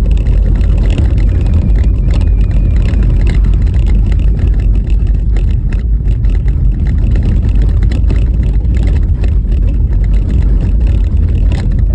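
Car driving over a bumpy, snow-covered road: a steady heavy low rumble of tyres and road noise, with frequent short knocks and rattles as the car jolts over the rough surface.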